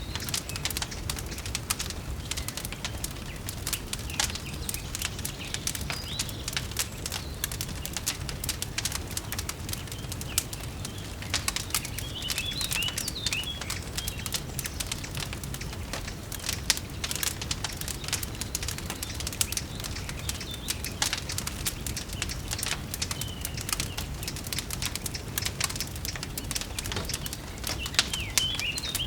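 Wood fire crackling and popping in a fireplace, with many irregular snaps over a low steady rumble. Birds chirp briefly a few times.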